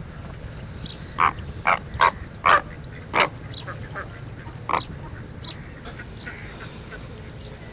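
Ducks quacking: six loud, short calls between about one and five seconds in, with faint high chirps in between.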